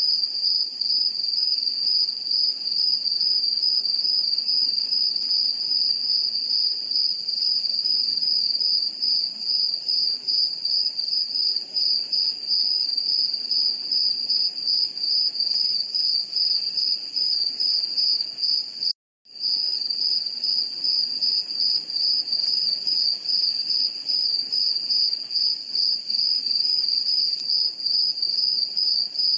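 Crickets chirping in one steady, high, rapidly pulsing trill that drops out for a moment about two-thirds of the way through.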